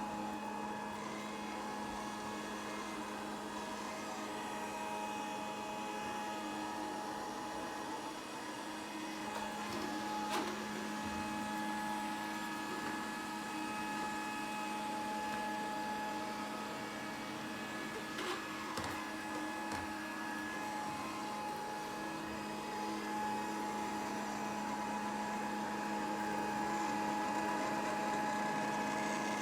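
Grundig VCR 2131 robot vacuum cleaner running, a steady motor hum with a high whine, broken by a few light knocks.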